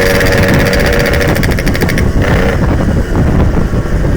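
Yamaha RX-King's 135cc single-cylinder two-stroke engine running hard on the road with a loud, raspy exhaust. The throttle eases off about two seconds in, and the high end of the exhaust note drops away while the engine keeps running.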